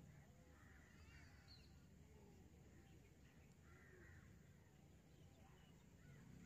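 Near silence: a faint outdoor background with a few faint bird calls, about a second in and again around four seconds in.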